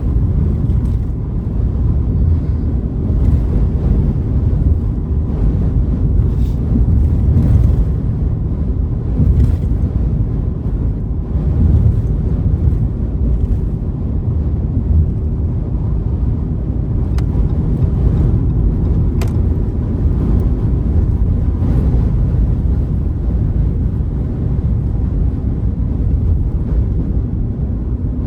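Steady low rumble of a car driving at road speed through a strong windstorm: tyre and engine noise mixed with wind buffeting the vehicle, rising and falling a little with the gusts.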